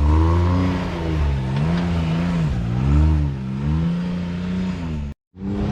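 Side-by-side UTV engine revving up and down repeatedly under throttle. The sound cuts out briefly about five seconds in.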